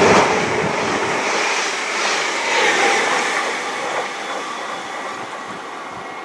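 Greater Anglia Stadler FLIRT multiple-unit train running past along the platform and away down the line, its rolling noise loud at first and fading steadily.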